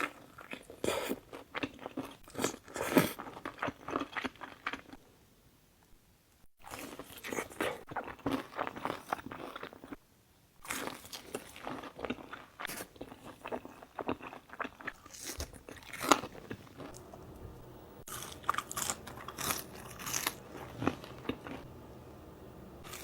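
Close-miked eating: crunchy food being bitten and chewed, a run of crisp crunches and mouth sounds that twice stops briefly.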